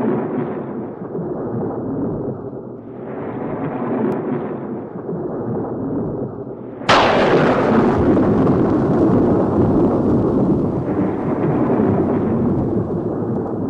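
Thunderstorm: rolling thunder rumbling over rain in slow swells. About halfway through it switches suddenly to a louder, brighter, steady hiss of heavy rain.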